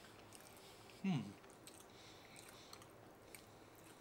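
Faint chewing of a bite of soft, cream-filled pumpkin spice donut, with small wet mouth clicks. About a second in there is a short falling hum from the voice, like an "mm".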